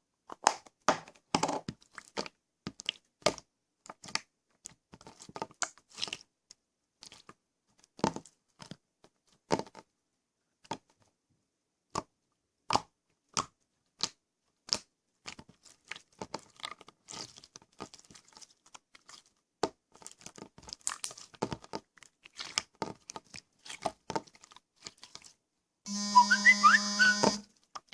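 Homemade slime being worked, giving an irregular run of sharp wet clicks and pops. Near the end a brief loud buzzing tone with a wavering higher pitch cuts in and stops.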